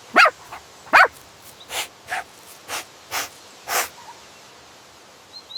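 Shih Tzu puppy giving two short yips, then a run of five short breathy puffs about half a second apart. A faint bird chirp comes near the end.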